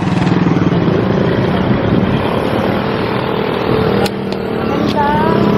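A motor vehicle engine running steadily at close range, with a couple of short clicks past the middle.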